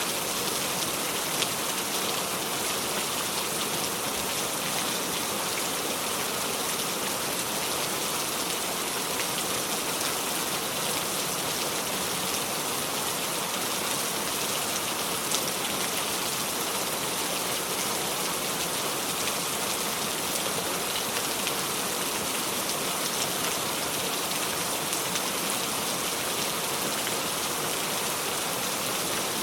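Steady heavy rain falling without thunder, an even hiss of rain on a surface with faint scattered drop ticks.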